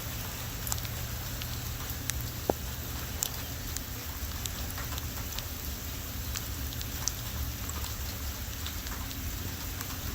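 Heavy rain falling, a steady hiss with many scattered drops ticking sharply on nearby surfaces, over a constant low rumble.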